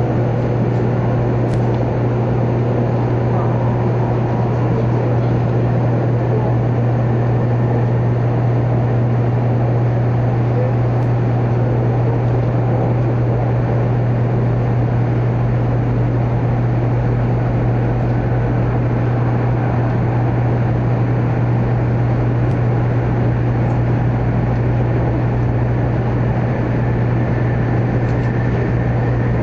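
Interior running noise of a 100 Series Shinkansen at speed in a tunnel: a steady, unbroken deep rumble with a constant hiss of wheels and air over it.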